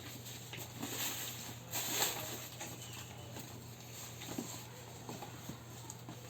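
Scattered rustling and light taps over a steady low hum, loudest about one and two seconds in.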